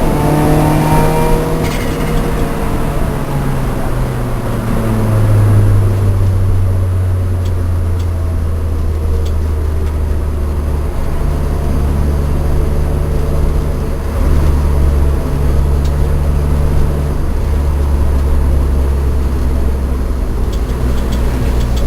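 Lancia Delta's engine running steadily at low revs, its pitch changing only slightly now and then, just after some brief revving.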